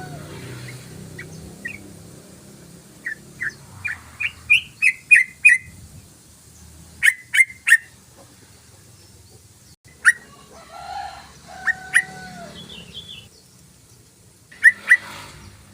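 Sooty-headed bulbul (trucukan) calling in bursts of short, sharp chirps: a run of about ten that quickens about three seconds in, then a group of three. It ends with a few scattered notes, including a longer held whistle, and a final pair.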